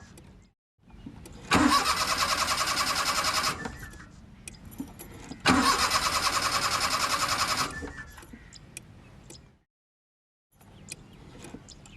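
Car starter motor cranking the engine in two attempts of about two seconds each, a rapid even pulsing that stops abruptly each time without the engine catching: a car that won't start.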